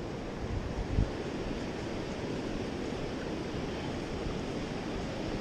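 Surf breaking and washing on a sandy beach, a steady rush, with wind on the microphone. A brief low thump about a second in.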